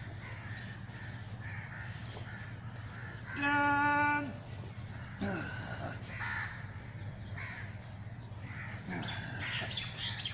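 Birds calling over and over in short calls, over a steady low hum. A voice counts "ten" once, drawn out, about four seconds in.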